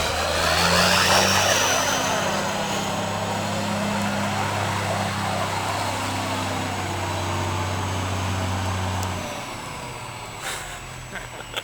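Kenworth semi truck's diesel engine running under steady power while the truck spins donuts, with its engine and tyre noise sweeping past close by. The engine note drops away about nine seconds in, followed by a couple of short knocks.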